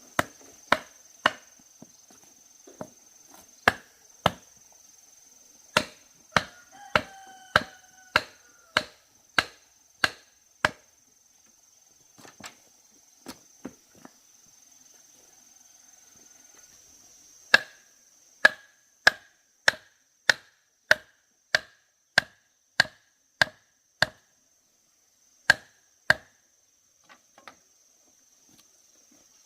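Chopping with a blade into bamboo, sharp strokes in runs of about two a second with a pause of a few seconds midway. A steady high insect drone runs beneath.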